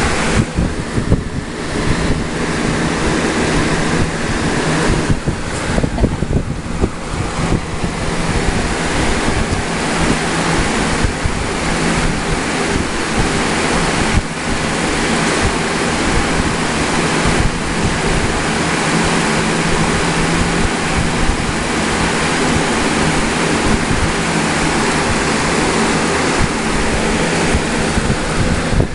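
Steady rushing water noise with a low steady hum underneath, like a running aquarium filter or air pump.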